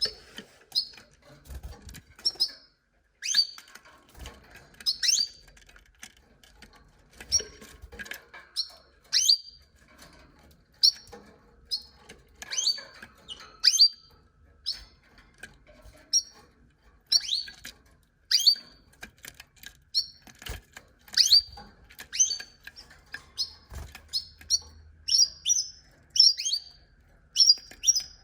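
Domestic canaries giving short, high chirping calls, one or two a second, with faint low thumps between them.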